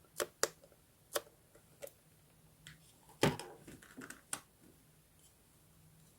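Sharp, separate clicks and taps of small desk objects being handled, about four in the first two seconds. A louder knock comes about three seconds in, followed by a second of lighter clicking and rustling.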